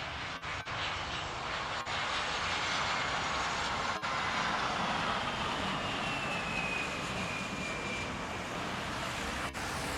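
Jet airliner's engines passing: a steady rush of noise with a high whine that slowly falls in pitch from about halfway through to near the end.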